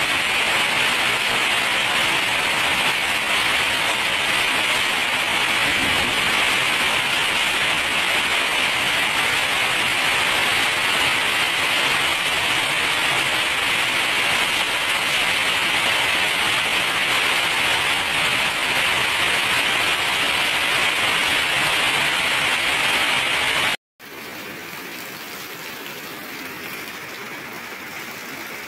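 Heavy rain pouring down, a dense, steady hiss of rain on roofs, cars, plants and the wet street. Near the end it cuts off abruptly and comes back as a softer hiss of rain.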